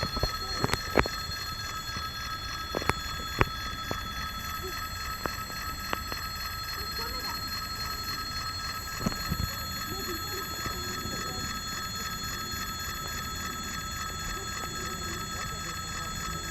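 Electric warning bell ringing continuously, with a few sharp clicks in the first few seconds.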